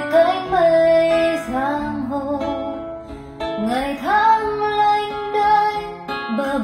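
A slow Vietnamese song with a woman singing long held notes, sliding up into them, over acoustic guitar, played back through Ali Acoustics Phoenix 3A SE loudspeakers.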